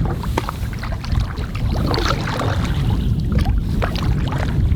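Paddling a canoe: scattered short knocks and splashes of the paddle and water against the hull over a heavy, steady low rumble on the microphone.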